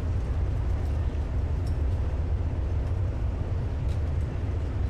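Steady low rumble of a car ferry's engines and hull heard on board, with no change in level.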